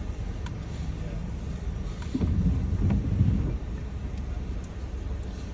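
Steady low rumble of a car idling, heard from inside the car. A muffled voice comes up briefly about two seconds in.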